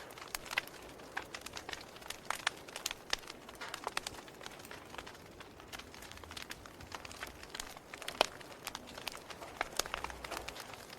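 Wood fire crackling: irregular sharp snaps and pops, several a second, over a soft steady hiss.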